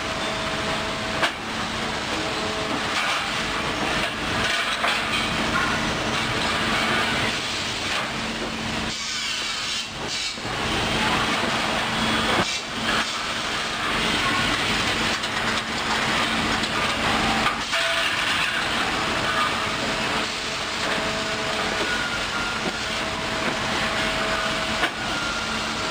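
Steady machinery noise with a faint hum and a higher tone that comes and goes, broken by occasional short knocks.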